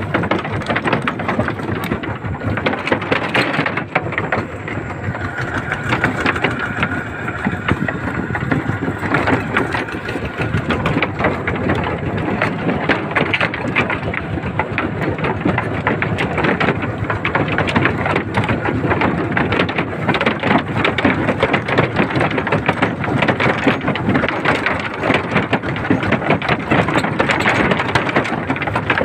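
Small tractor's engine running steadily at an even speed, with a dense clattering noise.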